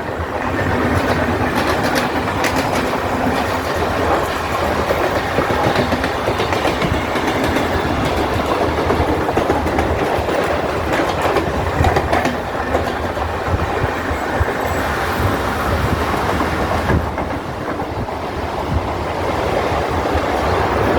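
Train running past on the track: a loud, steady rumble of wheels on rails, with scattered sharp clicks; the high hiss eases off near the end.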